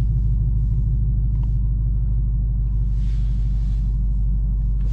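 2018 Ford Mustang GT's 5-litre V8 running steadily with a constant low rumble.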